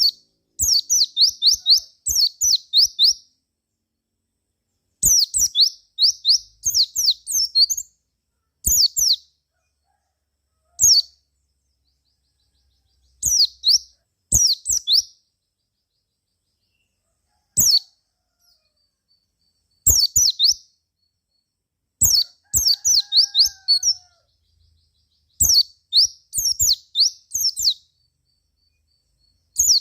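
White-eye (pleci) singing in phrases of rapid, high, descending chirps, each phrase one to three seconds long, separated by short silent pauses.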